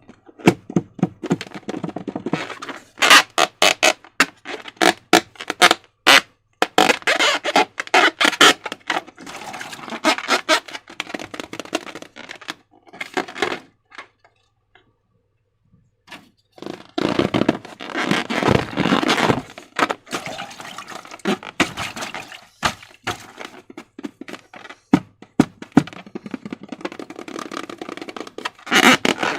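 Slime being squished and pulled by hand: dense runs of sticky clicks, crackles and squelches, with a pause of about two seconds halfway through.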